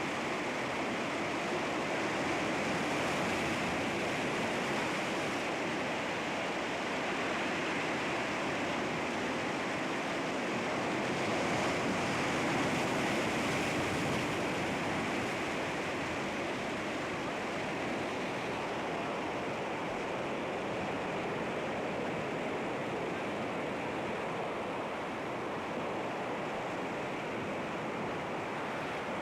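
Sea waves washing against rocks, a continuous surf rush that swells gently twice.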